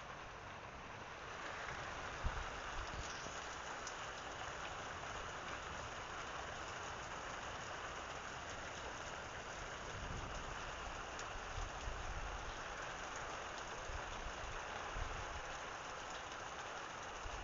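Steady rain falling and hissing, getting a little louder about a second and a half in, with irregular low rumbling underneath.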